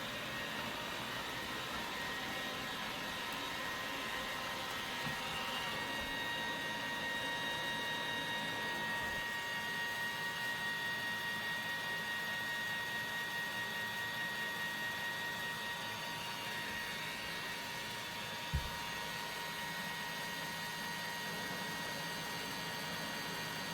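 Robot vacuum running steadily: a motor hiss with a thin high whine, and a single short knock about eighteen seconds in.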